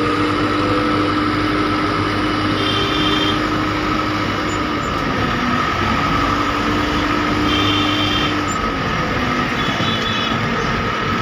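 Heavy diesel engine of earth-moving machinery running steadily, with a constant whine. Short high-pitched beeps come and go about three times.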